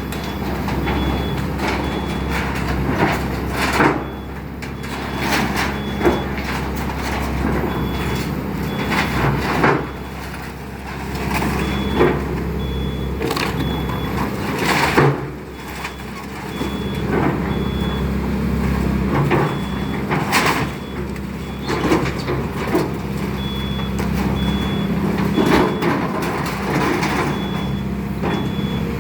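Excavator engine running steadily under load while demolition debris cracks and crashes in repeated sharp hits, the loudest about halfway through. A high warning beep sounds in spells throughout.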